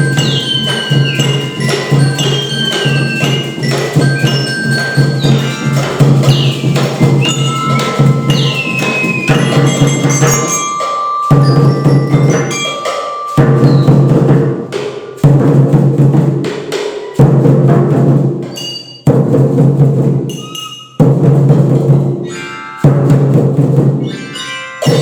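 Children's tetabuhan percussion ensemble playing a fast rhythmic piece, with wood-block and bell-like strikes over a steady low drum note. From about eleven seconds in, the ensemble plays a run of short loud phrases of about two seconds each, broken by brief stops.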